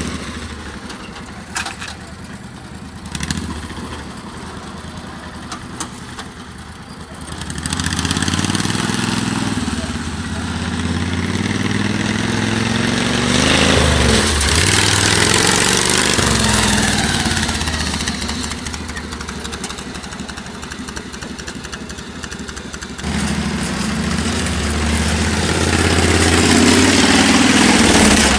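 A vehicle engine runs and grows louder about a quarter of the way in, its pitch bending and then dropping sharply around the middle as it passes close by. Another engine comes up loud near the end.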